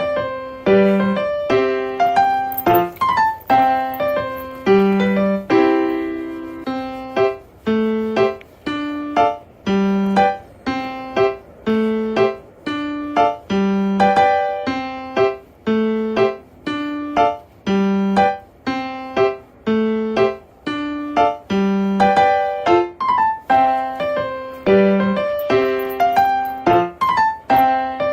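Background piano music: a gentle, repeating melody of struck notes in a steady rhythm.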